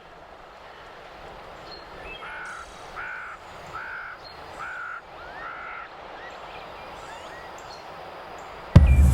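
Five short animal calls, evenly spaced about three-quarters of a second apart, over a faint outdoor background that fades in. Loud music with drums cuts in abruptly just before the end.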